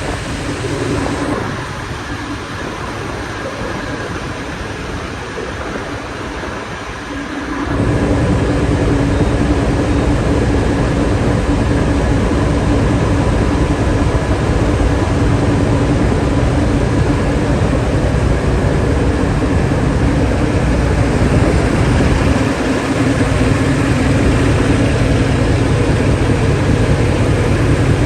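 A diesel truck engine running with a steady low rumble and hum. It comes in abruptly about eight seconds in, after a quieter stretch of steady hiss.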